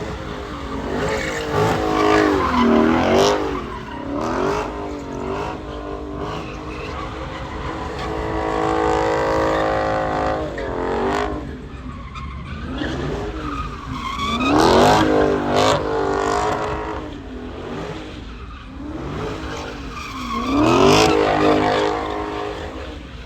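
Car engine revving hard, its pitch climbing and dropping over and over, with tyres squealing. It is loudest in surges near the start, about two-thirds through and near the end.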